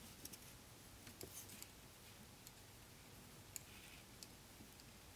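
Near silence with faint, irregular clicks and soft rustles of knitting needles and yarn as stitches are worked, one tick a little past halfway standing out slightly.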